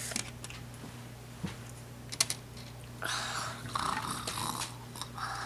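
Small plastic clicks and knocks of Lego toy pieces being handled, with a sharp double click about two seconds in, then a soft scratchy rustle in the second half.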